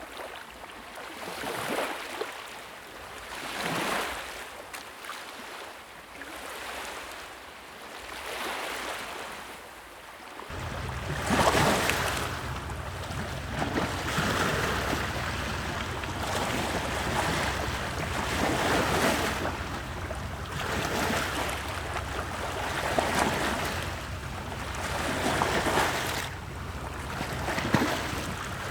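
Wood fire burning in a fireplace: a rushing, whooshing sound of the flames that swells and fades every couple of seconds, with a few sharp crackles. A low rumble joins about ten seconds in and stays.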